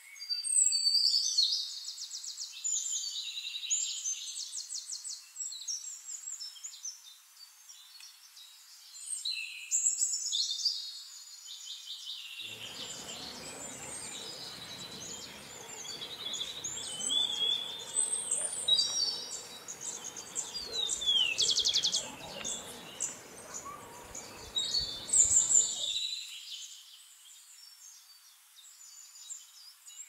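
Birds chirping and trilling in high-pitched, quick, overlapping calls. A soft outdoor background hiss runs under them through the middle stretch.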